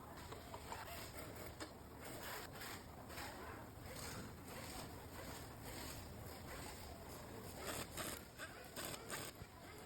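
Faint assembly-work noise: a steady low hum with scattered clicks and scrapes, a few sharper ones near the end.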